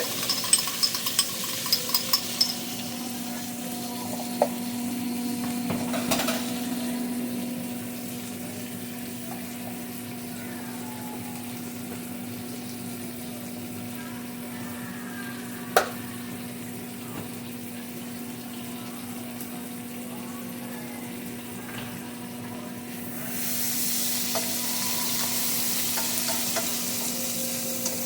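Onion, bacon, peppers and tomatoes sizzling in a frying pan, with a utensil clinking against the pan several times in the first couple of seconds as they are stirred. The sizzle dies down about eight seconds in and picks up again near the end, with a single sharp knock about halfway through and a steady low hum throughout.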